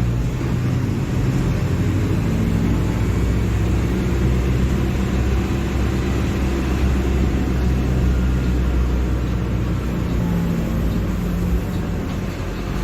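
Mercedes-Benz OF-1721 BlueTec 5 bus's diesel engine running steadily, a deep even drone with little change in pitch.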